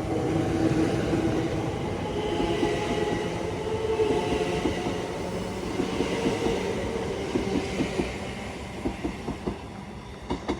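Electric multiple-unit train running along the rails and moving away, its sound fading steadily. From about halfway through, the wheels click over rail joints in a rapid, uneven series.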